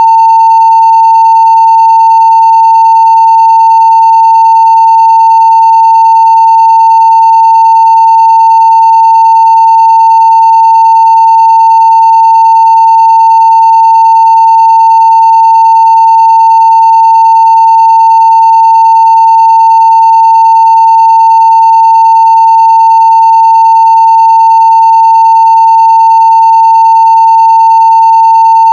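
Continuous 900 Hz sine-wave test tone at full scale (0 dBFS): one steady, unbroken pure tone with faint higher overtones.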